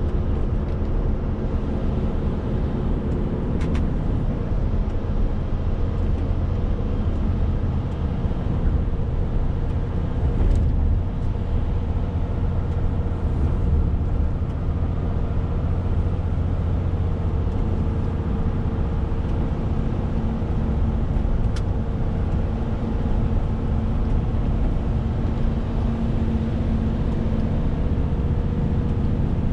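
Renault T520 lorry's six-cylinder diesel engine running steadily under way, with a constant low drone of engine and road noise and a few faint clicks.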